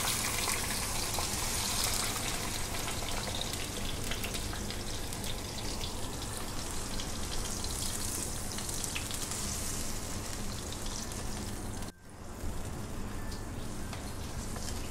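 Tomato paste sizzling and crackling in hot oil in a nonstick pan, around a whole chicken being fried for murgh musallam. The sound drops out for a moment about twelve seconds in.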